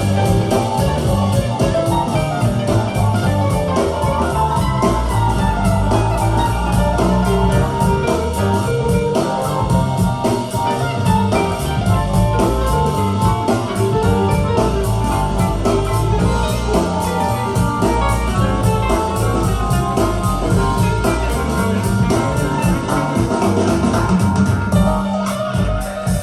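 Music played back through Tannoy Platinum B6 loudspeakers and a subwoofer, steady and loud with a strong bass line.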